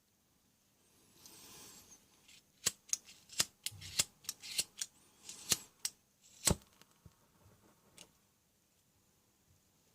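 Gas soldering iron being handled: a short hiss, then a quick run of a dozen or so sharp clicks and snaps over about four seconds, with another brief hiss among them.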